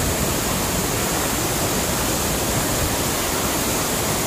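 Loud, steady rush of water plunging down a high waterfall, heard close to the falls.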